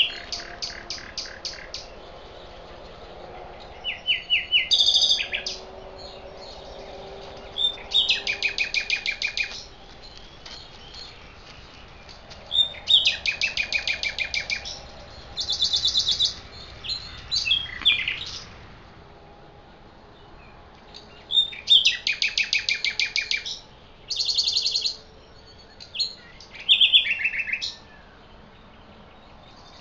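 A songbird singing in short phrases of rapid repeated high notes. Each phrase lasts a second or two, and the phrases come at intervals of a few seconds with quiet pauses between them.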